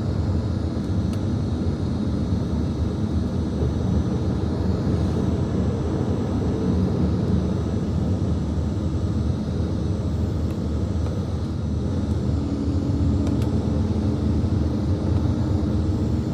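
CrossCountry diesel train running along the line after pulling out of a station: a steady rumble with a faint engine note.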